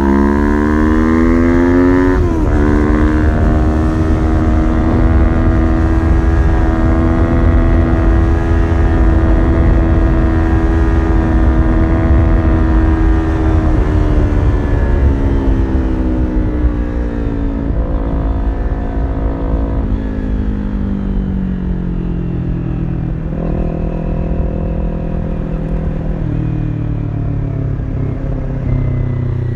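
Kawasaki Ninja 400 parallel-twin engine through a full aftermarket exhaust, heard while riding: it pulls through an upshift about two seconds in, holds a steady note, then the revs fall away from about halfway, with a couple of gear changes near the end. A heavy wind rumble runs underneath.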